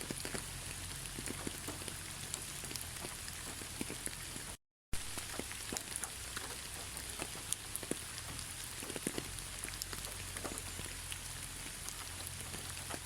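Steady rain falling, a constant hiss with many individual drops ticking sharply on a surface. The sound cuts out completely for a split second about four and a half seconds in, then resumes unchanged.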